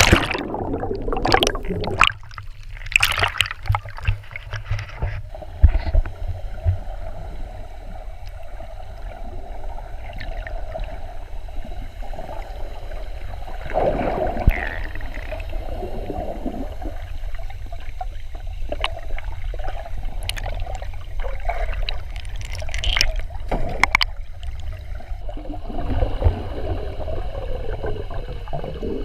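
Water sloshing and gurgling right against a camera microphone held in the water, with a steady low rumble and occasional sharp splashes and knocks.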